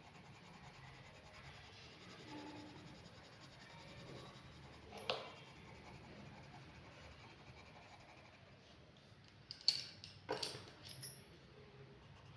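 Pen scratching faintly on paper while drawing, with a few sharp clicks: one about five seconds in and a quick cluster near the end.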